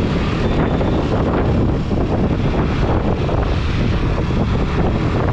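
Yamaha MT-15's single-cylinder engine running under way, mixed with steady wind rush on the camera's microphone.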